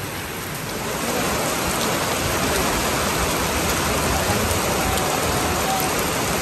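Heavy rain falling on wet ground and surfaces: a dense, steady hiss that gets louder about a second in.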